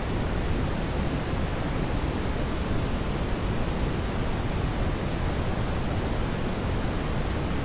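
Steady brown noise: an even, unbroken rushing hiss weighted toward the low end.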